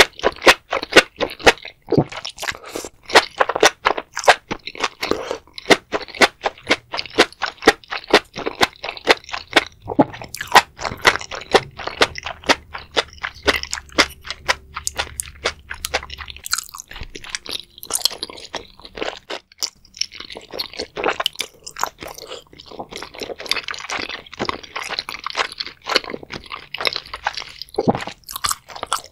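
Close-miked chewing of a mouthful of food, with enoki mushrooms among it: dense, rapid crunching and clicking mouth sounds throughout.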